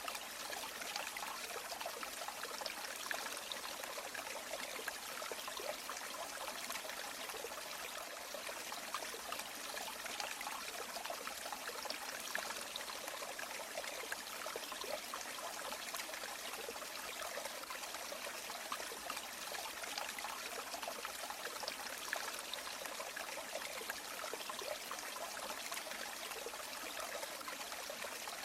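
Shallow stream or river running steadily, with a constant trickling and babbling of water.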